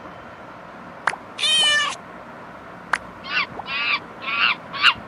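Cat meowing: a longer call, then four short meows in quick succession, each falling in pitch. Two sharp clicks come before the calls.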